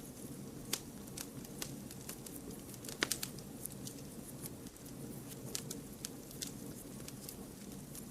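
Wood fire crackling: irregular sharp pops and snaps over a steady low rush of burning, with the loudest pop about three seconds in.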